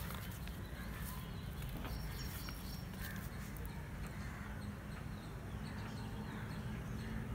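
Steady outdoor background with a low rumble and faint, scattered bird chirps.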